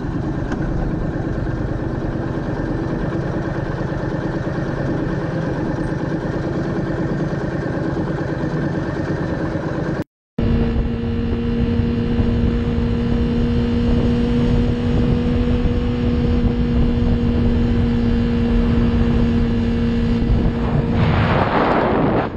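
Motorbike engine running steadily while riding, with road noise. The sound drops out abruptly for a moment about ten seconds in, then carries on as a steadier hum.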